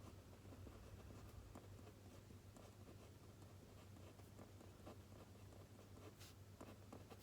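Faint scratching and light taps of a pen writing on paper, over a low steady hum, with a brief rustle about six seconds in.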